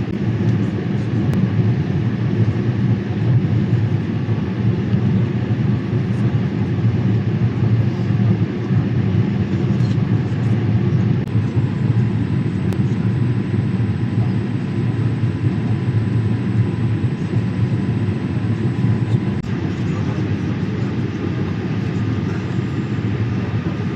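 Steady cabin noise inside a Boeing 787-8 airliner in flight: an even low rumble of engines and airflow past the fuselage.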